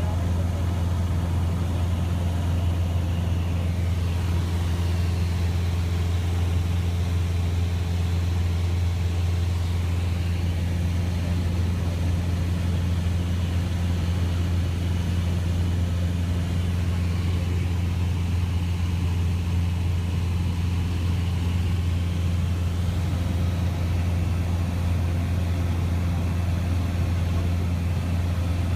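Cessna 172S's Lycoming IO-360 four-cylinder engine and propeller running steadily, a deep, even drone that does not change.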